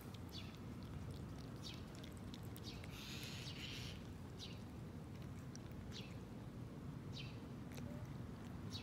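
Small birds chirping, short high chirps about once a second with a brief busier burst of calls a few seconds in, over a steady low outdoor hum.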